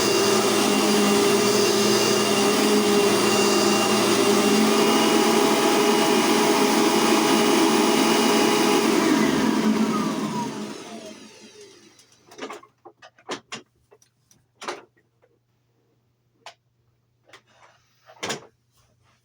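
Dirt Devil vacuum cleaner running steadily, then switched off about nine seconds in, its motor winding down in falling pitch over a couple of seconds. A few faint clicks and knocks follow.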